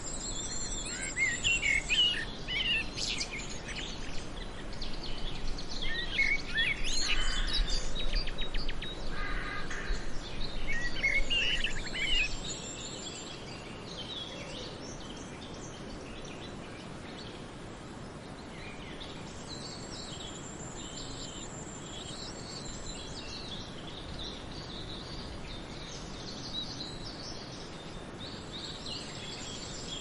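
Small birds singing and chirping over a steady background hiss. The calls are dense and loudest for the first twelve seconds or so, then the sound drops in level and only a few high trills come through.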